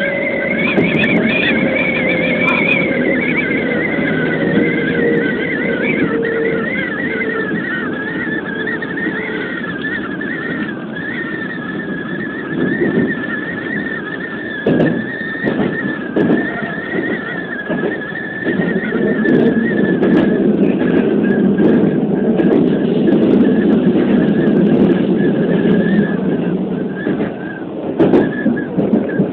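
Keikyu New 1000 series electric train running, heard from behind the cab: steady rumble of wheels and wind, with a motor whine that slides down in pitch over the first several seconds. There is a few short knocks about halfway and near the end.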